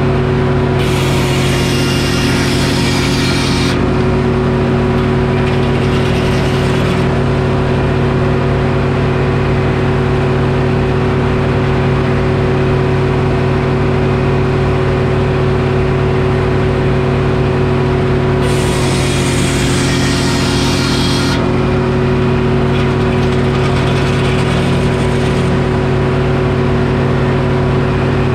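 Detroit Diesel engine running a Frick sawmill at a steady speed. Twice, about a second in and again about 18 seconds in, a harsher high-pitched noise rises over it for about three seconds, then fades off more weakly over a few more seconds.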